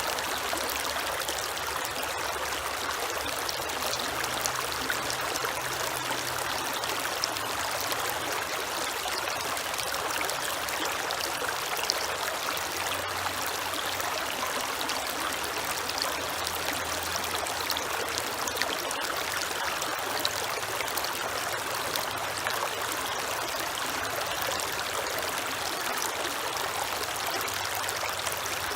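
Creek water flowing and trickling in a steady, even rush, with a faint low hum coming and going underneath.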